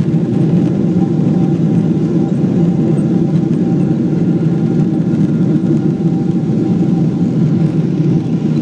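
Steady rumble of an airliner's jet engines and rushing air heard inside the passenger cabin, with a faint steady hum above it.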